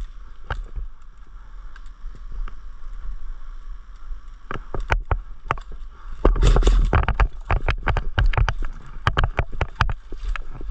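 A run of irregular sharp clicks and knocks that grows denser and louder partway through, with a heavier stretch of knocking and rumble about six seconds in.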